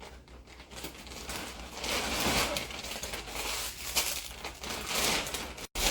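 Plastic vacuum storage bag crinkling and rustling in irregular surges as stuffed plushies are handled and pushed into it.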